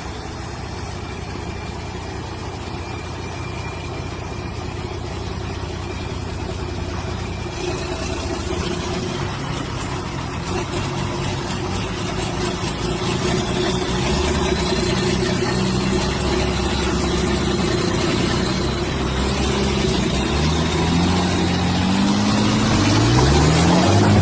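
A motor vehicle's engine running, its pitch holding and stepping, then climbing steeply over the last few seconds as the engine speed rises.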